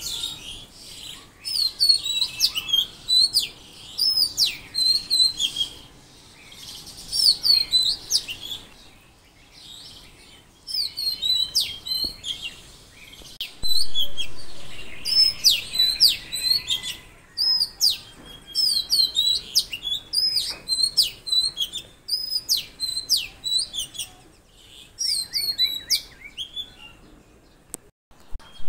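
Songbirds chirping: bursts of rapid, high, sweeping chirps repeated in short phrases with brief pauses between them.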